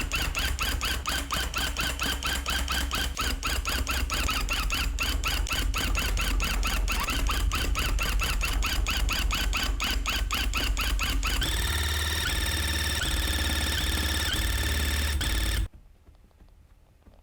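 Electric tufting gun running, a fast steady mechanical chatter with a squealing whine over it. About eleven seconds in the pitch of the whine shifts and steadies, and the gun stops sharply near the end.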